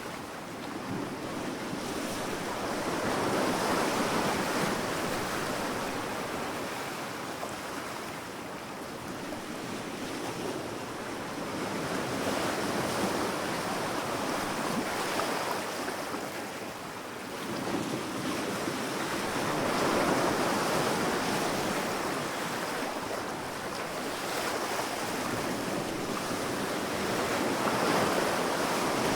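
Sea waves breaking on a sandy beach, the surf swelling and fading roughly every eight seconds.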